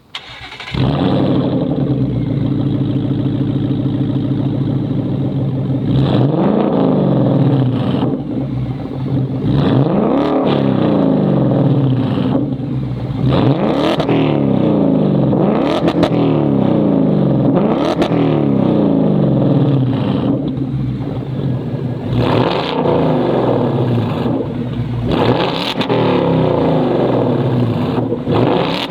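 S650 Ford Mustang GT's 5.0-litre V8 through an AWE stainless catback exhaust with H-pipe, firing up about a second in and idling steadily, then revved again and again, each rev rising and falling roughly every two seconds.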